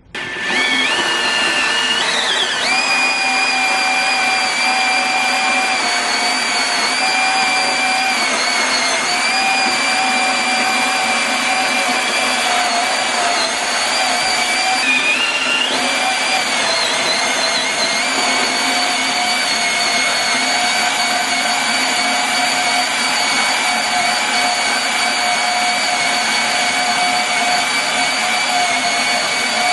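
Milwaukee M12 cordless compact band saw cutting through metal stock: a steady motor-and-blade whine that starts suddenly and keeps running, its pitch wavering and dipping briefly a couple of times as the blade takes load.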